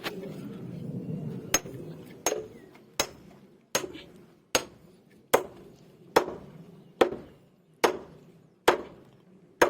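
Hammer blows at a steady, even pace, about eleven sharp strikes roughly one every 0.8 seconds, each ringing briefly, beginning about a second and a half in.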